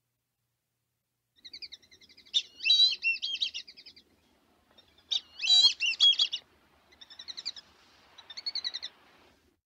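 Songbird singing in four bursts of quick, warbling chirps and trills. The loudest bursts come about two and a half and five and a half seconds in.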